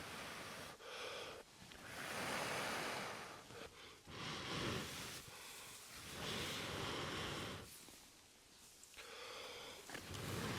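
A person blowing long, steady breaths into a tinder bundle around a glowing char-cloth ember, about five blows a second or two each with short pauses between, coaxing the ember into flame.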